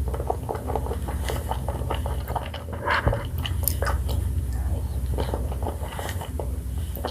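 Close-miked chewing and biting of vanilla ice cream with jelly balls: a quick run of small wet mouth clicks and smacks, with one louder smack about three seconds in.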